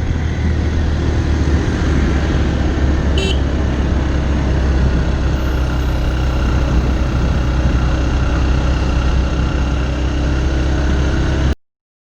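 Motorcycle engine running steadily while riding, with wind rumble on the microphone; the sound cuts off abruptly near the end.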